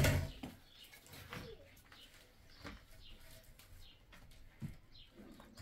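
A knock at the very start, then scattered faint knocks and short, high, falling bird chirps.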